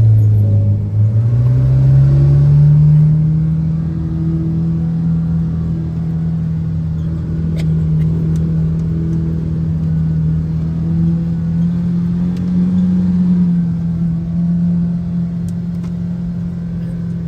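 Kawasaki six-seat side-by-side's engine running while driving, its note rising over the first few seconds as it speeds up and then holding fairly steady with small swells, with a few light clicks from the ride.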